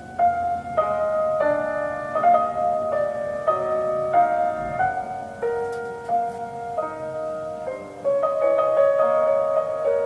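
Solo piano playing a slow, tender classical melody, one note after another, each struck note ringing on.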